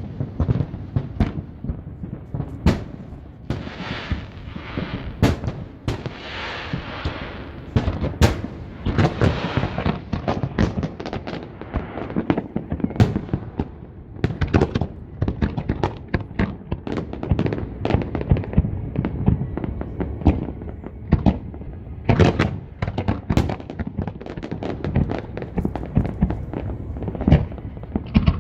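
Fireworks display: a dense, continuous barrage of shell bursts and booms, with stretches of crackling and hiss about four to ten seconds in.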